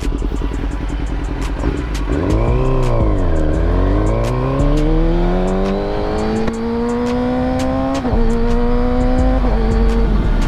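Kawasaki Ninja ZX-6R's inline-four engine, steady at first, then the revs dip and climb as the bike pulls away and rises through the gears, with three upshifts in the second half, each a sudden drop in pitch.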